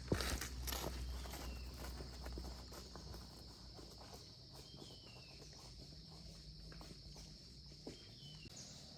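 Footsteps and a few knocks in the first second, fading out, over a steady high insect drone, with a few short falling bird chirps.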